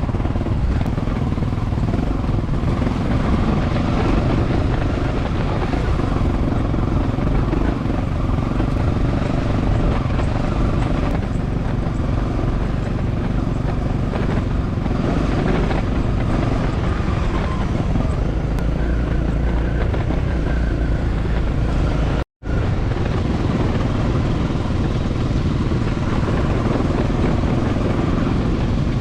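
Dual-sport motorcycle engine running steadily while riding, mixed with rushing noise. The sound cuts out completely for a split second about three quarters of the way through, then carries on.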